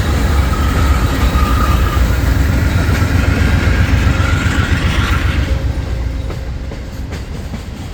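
A train rolling past close by: a heavy rumble of railcars and wheels with a thin steady whine above it. It fades away from about five and a half seconds in.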